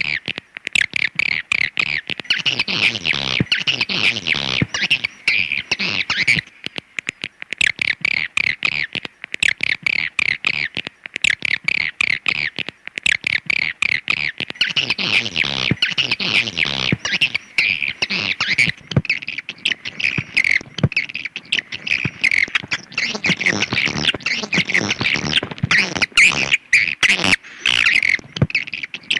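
Recorded swiftlet calls played as a lure: a dense, unbroken stream of rapid high chirps and clicking twitters, with the pitch of some calls sliding about.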